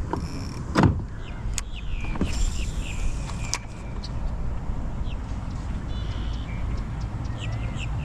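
Steady low whir and rumble of an Old Town PDL kayak's pedal drive as it is pedalled along, with a sharp knock about a second in and a few short high chirps.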